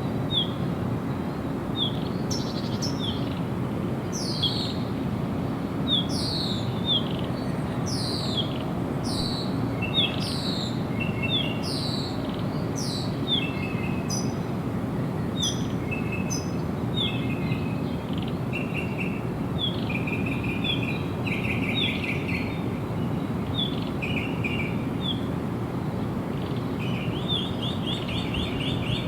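Songbirds singing: a run of quick falling chirps, about one a second, with short trilled phrases mixed in, over a steady low background hiss.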